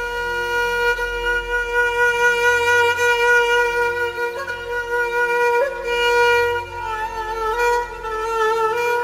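Violin-voiced instrumental melody accompanying a mournful sung lament (na'i): long held notes, turning to quicker, wavering ornamented phrases near the end, over a low repeating bass.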